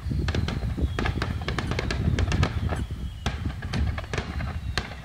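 Aerial fireworks going off in quick succession: many sharp bangs and crackles over a continuous deep rumble.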